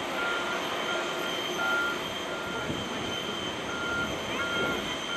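Vehicle reversing alarm beeping steadily at one pitch, a little more than once a second, over a steady high-pitched whine in the background.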